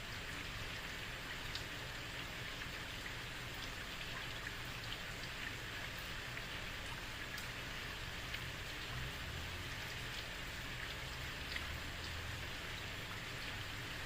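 Heavy rain falling steadily on a street, a continuous hiss with scattered individual drop ticks and a low rumble underneath.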